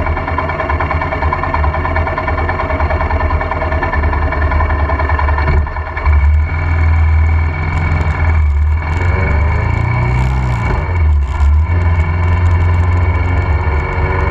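Royal Enfield Himalayan's single-cylinder engine running as the motorbike rides along. Its sound drops away briefly a few times and picks up again.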